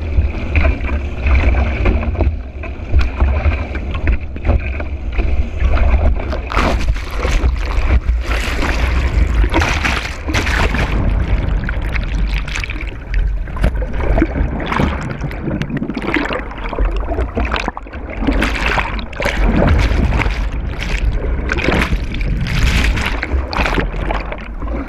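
Wind buffeting the board-mounted action camera as a low rumble, with water rushing under the board as it planes over chop. From about six seconds in come repeated hissing splashes of spray striking the board and camera.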